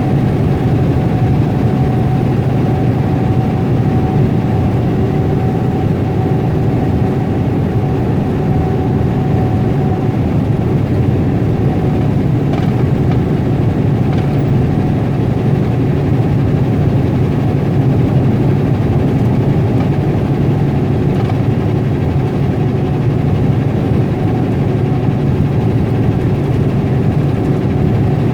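Semi-truck's diesel engine and road noise heard from inside the cab while driving: a steady, loud low drone with a faint constant whine above it.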